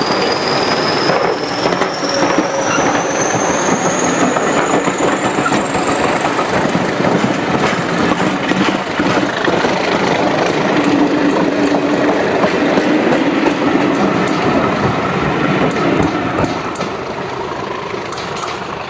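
A diesel-hauled train of coaches rolling past close by: wheels rumbling and clicking over the rails, with a thin high whine that rises slowly in pitch throughout. The sound eases off near the end as the last coach moves away.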